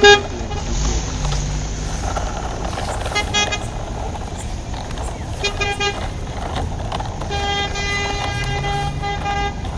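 Vehicle horn honking over a steady engine rumble: a short toot at the start, a few quick toots about three seconds in and again near the middle, then a longer, pulsing honk near the end.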